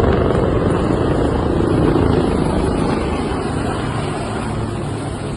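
Helicopter rotor and engine noise, a dense steady drone that slowly grows quieter.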